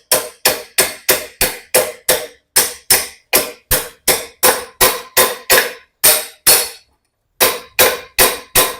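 Hammer blows, about three a second, driving a new steering ball race into a Hero Destini 125 scooter's steering head, each blow a sharp metallic strike with a short ring. The blows pause briefly near the end, then resume.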